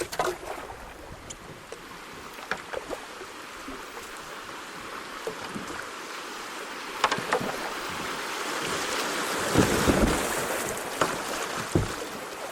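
Kayak paddling on a rocky creek: water splashing around the hull, with scattered short knocks of paddle strokes. A rushing noise swells to its loudest about two-thirds of the way in, and a low thump comes near the end.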